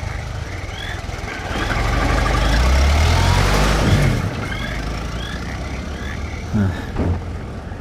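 Sound-effect car engine running on the road, swelling as a vehicle passes about three to four seconds in and then falling in pitch as it moves off, with short high chirps repeating in the background.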